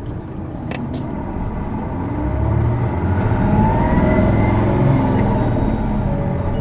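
Isuzu Erga city bus's six-cylinder diesel engine heard from inside the cabin, accelerating away from a stop: the engine note climbs in pitch and loudness from about two seconds in, then holds at high revs. This engine has a characteristic abnormal noise, typical of PKG-era Ergas.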